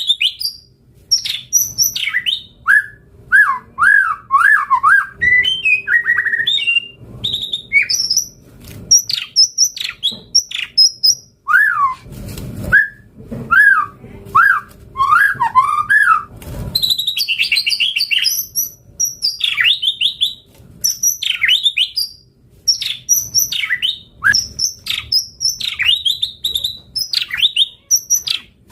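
White-rumped shama (murai batu) singing a continuous, varied song of quick whistled phrases. It moves between high sweeping notes and runs of repeated rising-and-falling notes, with short breaks between phrases.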